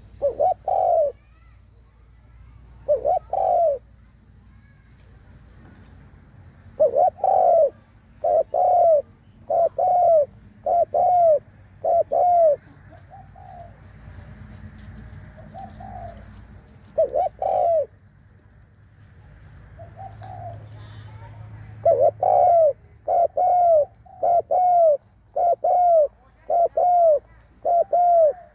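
Spotted dove cooing: short, loud coo notes in pairs and runs, ending in a fast run of about a dozen coos over the last six seconds. Fainter coos come between the runs.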